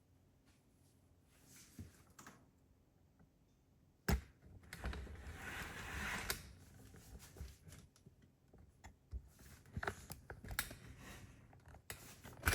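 Quiet at first, then a sharp knock about four seconds in, followed by a couple of seconds of rustling and scattered light clicks and taps.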